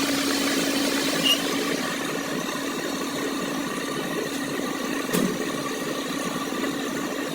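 An engine running steadily at idle, with its camshaft gear newly repaired. A short click comes about a second in, and another about five seconds in.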